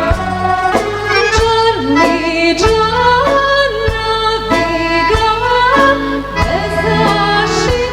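A woman singing a Serbian folk song in an ornamented, bending melody, accompanied by accordion and a band with a steady beat.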